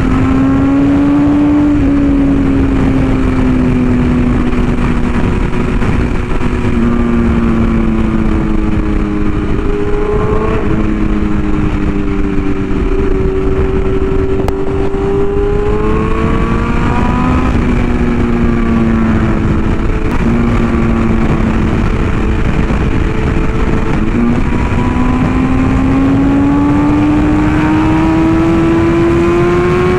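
BMW S1000RR's inline-four engine running under way, its pitch sliding down and back up several times with throttle and gear changes, over a steady rush of wind.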